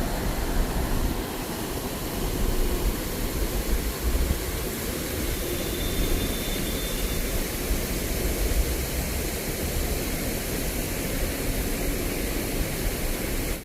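Steady rushing of stream water flowing over a weir or cascade, an even hiss with a low rumble underneath.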